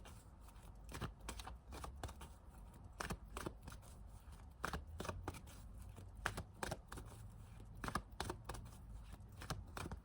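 Tarot cards being shuffled and handled: a run of soft, irregular clicks and snaps.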